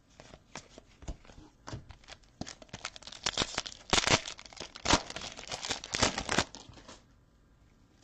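Football trading card pack wrapper being torn open and crinkled, a dense crackling that builds from about two and a half seconds in and stops near the seven-second mark.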